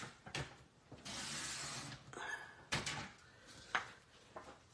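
Paper and craft supplies being handled and shuffled on a desk: a stretch of paper rustling or sliding about a second in, with several light clicks and knocks of items being moved.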